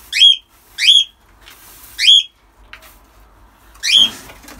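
A pet parrot giving four loud, short, shrill calls, each sliding upward in pitch, spaced irregularly a second or two apart.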